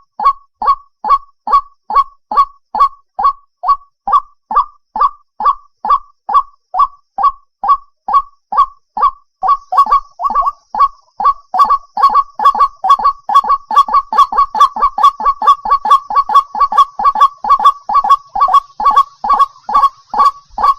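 White-breasted waterhen calling: a steady run of short, harsh, downward-sliding notes, about three a second. About ten seconds in, a second series of calls joins and overlaps the first, so the notes come faster and denser.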